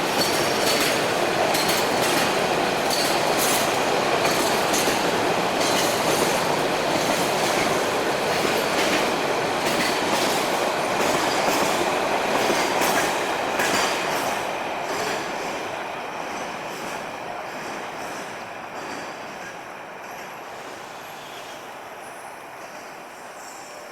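Metre-gauge container freight train rolling past, its steel wheels clacking rhythmically over the rail joints. About fourteen seconds in the clatter begins to fade steadily away as the train moves off.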